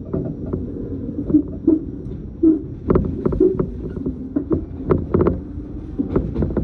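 Train running, heard inside the passenger car: a steady low rumble with many irregular clicks and knocks from the wheels, track and car body.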